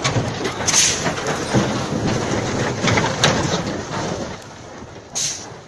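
Steady noisy rumble of a vehicle on the move, with scattered clicks and two short hissing bursts, about a second in and near the end.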